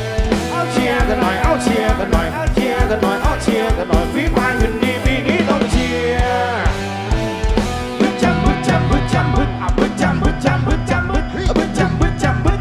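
Live rock band music with drums and a gliding lead melody. About eight seconds in, the drums settle into a quick, steady beat.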